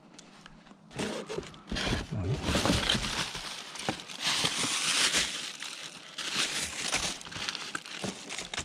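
Rustling, crinkling and clattering of junk being rummaged through by hand, with many small knocks.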